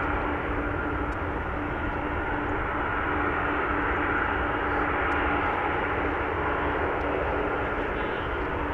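Jet engines of a Boeing 787-9 airliner (Rolls-Royce Trent 1000 turbofans) running steadily after landing: an even rushing noise with a steady whine.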